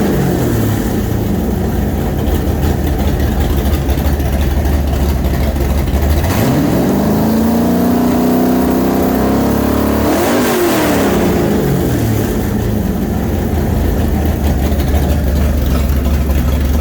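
Freshly built 427 Windsor Ford V8 with a roller cam running at idle. About six seconds in it is revved up, held for a few seconds, then drops back to idle.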